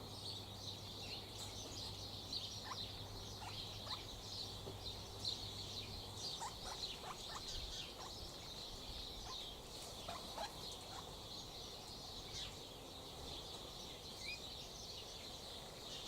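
Background chorus of many faint, high-pitched chirps and short calls from small animals, with scattered lower calls among them. A low steady hum runs underneath and stops about six seconds in.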